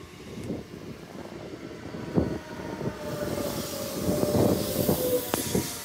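Renfe Class 447 electric multiple unit running past close by, its wheels rumbling and knocking on the rails, with a steady whine. It grows louder about halfway through, with a rising hiss, as the cars draw level.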